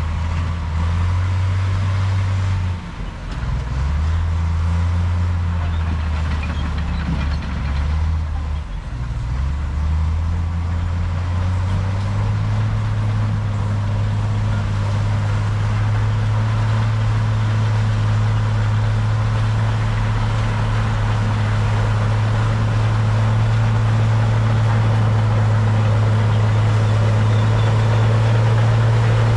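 Heavy diesel engine of earthmoving machinery running, its pitch shifting up and down several times through the first dozen seconds. It then holds a steady note that creeps slightly higher and louder.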